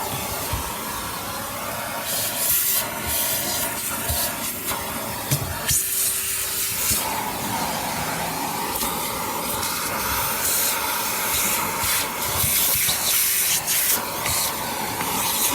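Vacuum cleaner running, a steady rushing hiss of air with a faint motor whine that wavers slightly, as the nozzle sucks up dust and grit from the car interior. Scattered clicks and knocks throughout.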